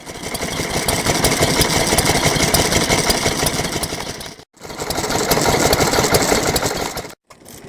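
Stationary engine (hatsudōki) running with a rapid, even chugging, cut off abruptly twice for a split second.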